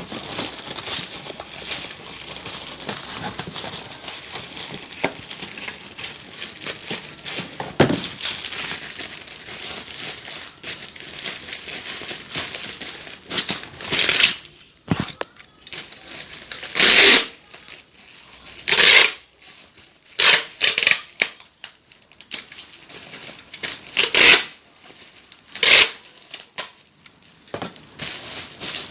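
Plastic wrapping being crinkled and handled around a small item while it is packed, with a steady crinkle at first, then several louder ripping or tearing sounds in the second half.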